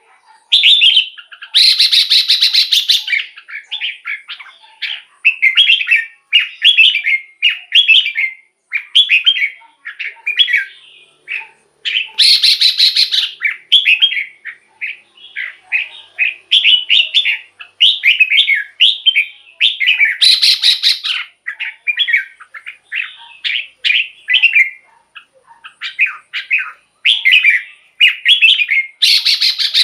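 Red-whiskered bulbul singing short, quick whistled phrases over and over. About every eight seconds the song breaks into a loud, harsh rattling chatter that lasts about a second and a half.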